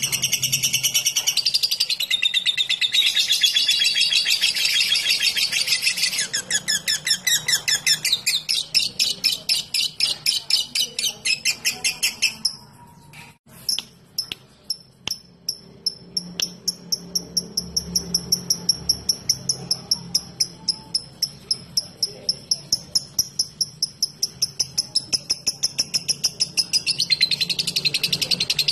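Lovebird singing in a long, dense high chatter (the 'ngekek'), then switching to a rapid series of short, evenly spaced high ticking notes (the 'ngetik'), about three a second. The ticking briefly breaks off with a few clicks near the middle, then runs on, and the dense chatter returns near the end.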